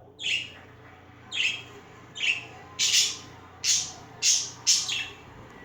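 Pet birds calling: a series of about eight short, harsh chirps, coming closer together in the second half.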